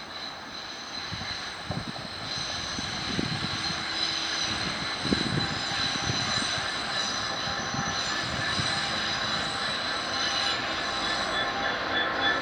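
A train approaching and growing steadily louder, with several steady high-pitched tones ringing over its rumble.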